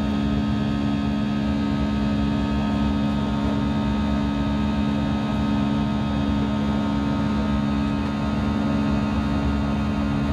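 Steady drone of an Airbus A319's jet engines heard inside the cabin, with a few steady humming tones and no change in pitch or level.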